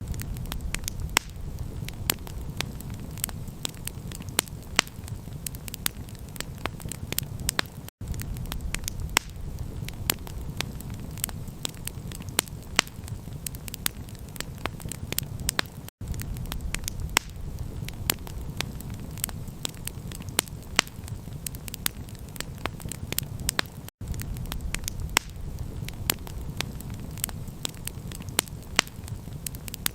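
Campfire crackling, with many sharp pops over a steady low rumble. The sound cuts out for an instant about every eight seconds.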